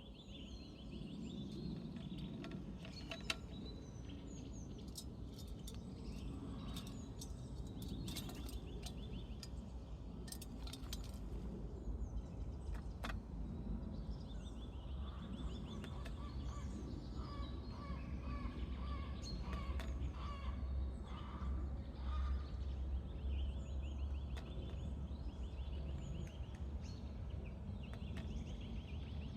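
Small birds singing and chirping, with fast trilled phrases, over a steady low rumble. There are several sharp taps in the first third.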